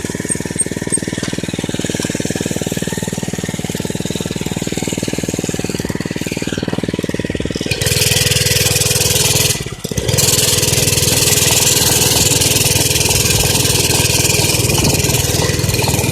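Minibike's small engine running steadily. About eight seconds in it turns louder and harsher, drops out briefly near ten seconds, then runs on.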